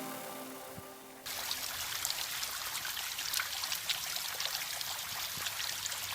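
Background music fading out. A little over a second in, running water takes over: a steady trickle with many small splashes.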